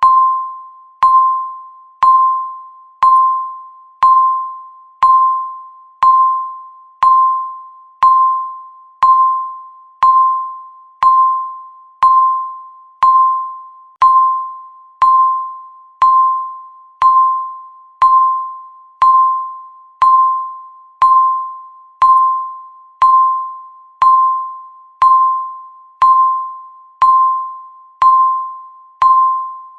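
Countdown timer's electronic beep sounding once every second, a single clear tone that starts sharply and fades away before the next, like a chime struck each second.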